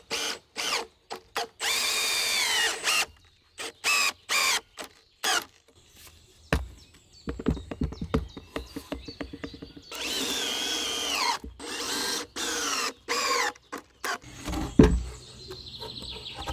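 Cordless drill driving screws into wood in repeated short runs, the motor's whine dropping in pitch at the end of the longer runs. A stretch of rapid clicking comes in the middle.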